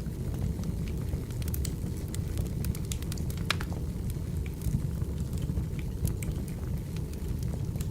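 Wood fire burning: a steady low rumble with frequent, irregular sharp crackles and pops of burning firewood.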